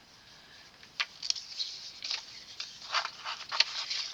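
Old paper items and photo negatives being handled and laid down: a sharp click about a second in, then several short rustles.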